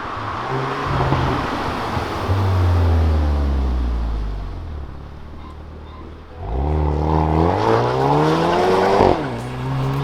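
2021 Hyundai Veloster N's turbocharged four-cylinder engine and exhaust in N mode under hard driving. The revs fall away for a few seconds, then the engine pulls hard again with its pitch climbing. The pitch drops suddenly about nine seconds in as the dual-clutch gearbox shifts up.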